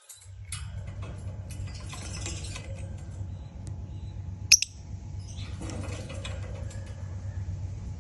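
Lovebird moving about its cage: scattered small clicks and rustles, and one short sharp squeak about four and a half seconds in, over a steady low hum.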